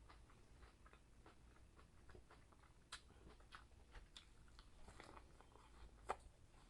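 Faint sounds of a person eating: quiet chewing with scattered small clicks, and two sharper clicks about three seconds in and near the end.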